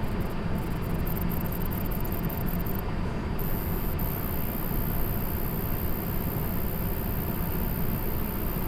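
Asus ROG Strix LC GeForce RTX 3090 Ti graphics card running in a PC: a steady rush of cooling-fan noise with a high-pitched whistle of coil whine from the card's chokes. The whistle flickers on and off at first and holds steady from about three and a half seconds in. The whine is taken for normal and acceptable, not a warranty fault.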